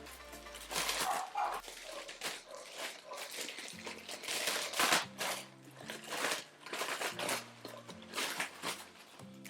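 Rustling and crinkling of packaging as a hair dryer brush is taken out of its box and pouch, in a run of short bursts, over soft background music.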